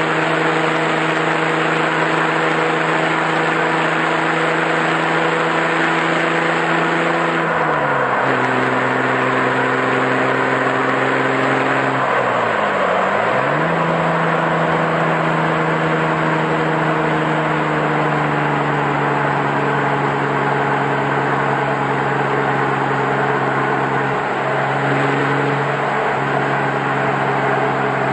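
Jeep Wrangler engine running through an aftermarket after-cat exhaust at a steady drive. The exhaust note drops with a shift about eight seconds in, dips and comes back up around twelve to thirteen seconds in, then slowly eases lower.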